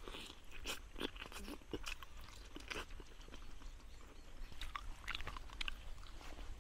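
A person chewing and eating grilled fish picked up with the fingers, close to the mic: irregular wet smacks, small crunches and clicks of flesh and skin.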